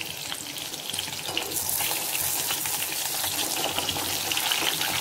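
Masala-coated chicken pieces shallow-frying in hot oil, sizzling and crackling as they are turned over with a spatula. The sizzle grows louder about a second and a half in.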